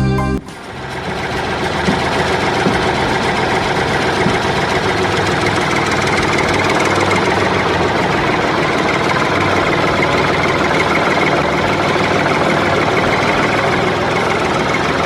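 A motor running steadily, building over the first couple of seconds and then holding an even level.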